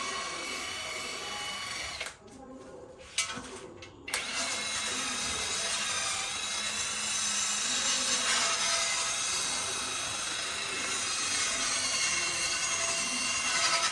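A power tool running steadily with a high whine. About two seconds in, it cuts out for roughly two seconds, with a sharp click in the gap, then starts up again.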